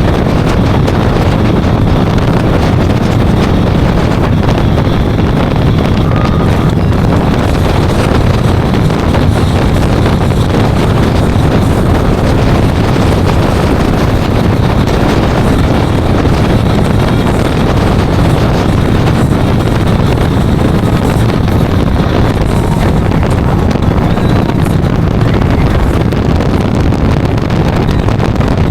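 Wind rushing steadily over the microphone with motorcycle engine and road noise underneath, from riding at speed.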